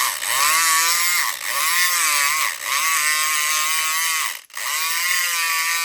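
SouthOrd E500XT electric lock pick gun running in a lock, its motor giving a loud buzzing whine that wavers up and down in pitch. It stops briefly about four and a half seconds in, then starts again.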